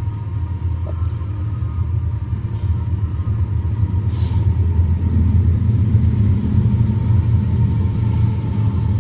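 BNSF freight train's diesel locomotives approaching and passing, a steady low rumble that builds about halfway through, heard muffled through a car window.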